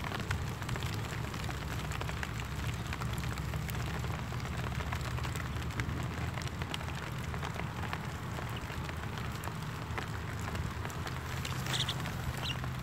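Light drizzle falling: a steady hiss dotted with many small drop ticks, over a low steady hum. Two short high chirps near the end.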